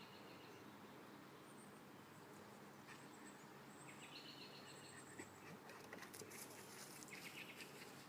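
Near silence with faint bird chirps a few times, over a low steady hiss.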